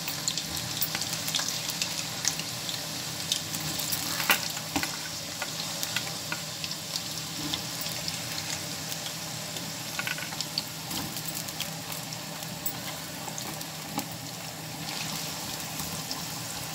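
Small diced potato cubes frying in hot oil in a pan: a steady sizzle with scattered crackling pops.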